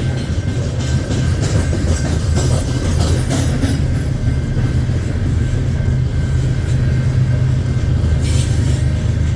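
Loaded coal train rolling past: a steady low rumble with wheels clicking over the rail joints, as the rear distributed-power diesel locomotive approaches.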